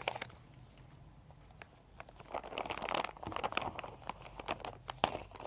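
Plastic packaging bags crinkling and rustling as they are handled and opened, with many irregular sharp crackles.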